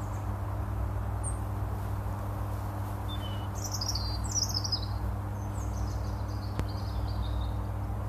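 Birds chirping: a couple of single high chirps, then quicker runs of notes from about three to seven seconds in, over a steady low hum.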